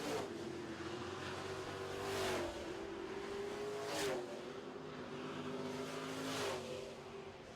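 Super Trucks race trucks running at speed on a dirt oval, engines droning steadily, with trucks passing close by about three times.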